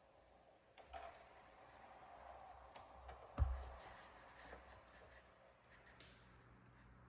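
Faint clicks and rustling of small objects being handled, with one sharper knock about three and a half seconds in.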